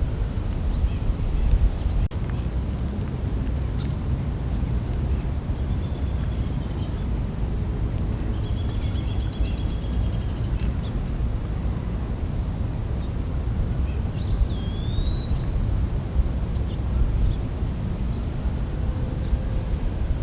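Night forest insects: crickets chirping in an even pulse a few times a second over a steady high-pitched insect drone, with two longer trills in the middle and a short swooping call near the end, all over a low rumbling background.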